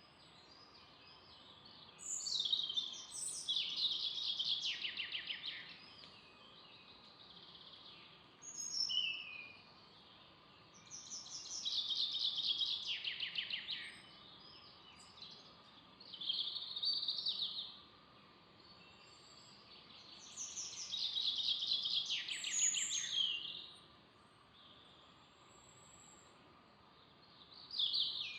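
A songbird singing a run of short song phrases, each a rapid series of notes that falls in pitch, with pauses of a few seconds between them, over a faint steady background hiss.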